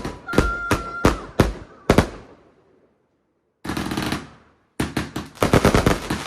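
Fireworks going off in a rapid string of sharp bangs, with a short whistling tone near the start. The sound cuts out completely for over a second midway, then a dense, quick-fire run of bangs takes over.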